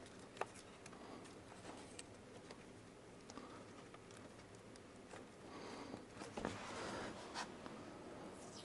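Faint hand-work sounds on car wiring: scattered small clicks and a rustling, crackly stretch about six seconds in, as a splice is twisted and wrapped in electrical tape.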